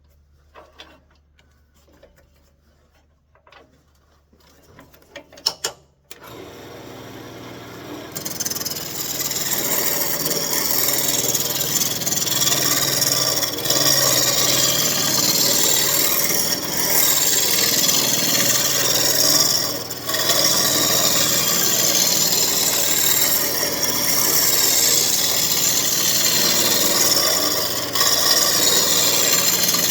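A few faint clicks, then a wood lathe starts up about six seconds in. From about two seconds later a turning tool cuts a steady, loud scraping cut into the spinning elm spoon blank as it is brought to round, with brief breaks where the tool comes off the wood.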